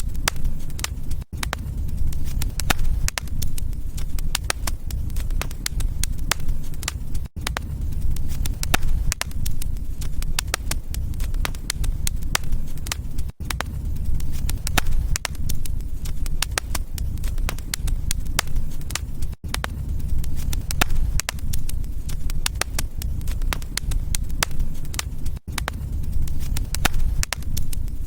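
Wood fire in a fireplace crackling and popping steadily over a low rumble of the flames, with a brief dropout about every six seconds.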